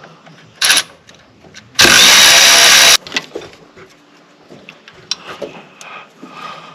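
Cordless ratchet with a ½-inch socket spinning a nut off a carriage bolt: a brief blip of the motor, then a run of about a second. Small metallic clicks and knocks follow.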